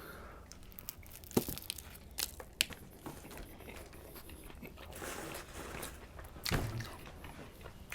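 Close-miked chewing and biting of a Subway sandwich: soft crunching and wet mouth clicks in scattered bursts, with a louder burst a little after six seconds.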